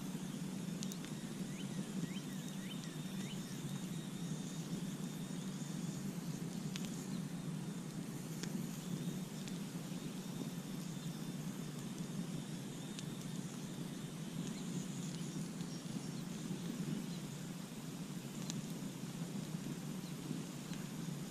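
Campfire crackling: scattered sharp pops and snaps over a steady low rush. Faint high chirping sounds in the first few seconds.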